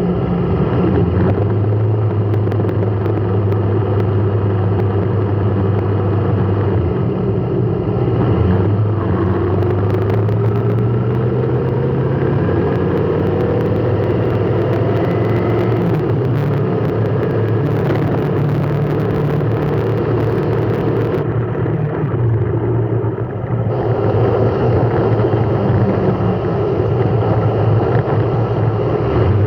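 A road vehicle's engine running with a steady low hum, its pitch rising slowly as it speeds up between about ten and sixteen seconds in.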